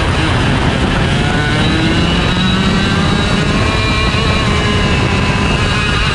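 IAME Leopard 125cc two-stroke kart engine at full throttle, heard from on board. Its pitch climbs over the first couple of seconds, then holds high with small dips.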